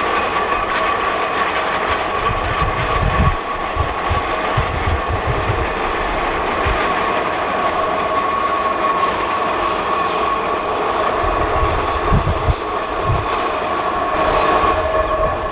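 Geared steam locomotive running along the track, a continuous rail rumble with a steady high ringing tone held throughout and irregular low thumps.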